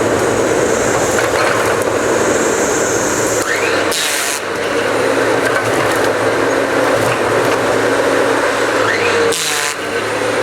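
Diesel engine of a cut-to-length logging machine running steadily under load. There are two short bursts of hiss, about four seconds in and again near the end.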